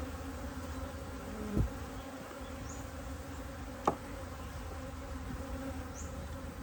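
Honeybees buzzing steadily around an open top-bar hive, with a brief falling hum about a second and a half in and a single sharp click just past the middle.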